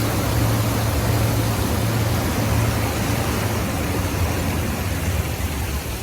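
Wet stone-dust collector running, its fans and water pump making a steady low hum under an even rushing hiss of air and falling water.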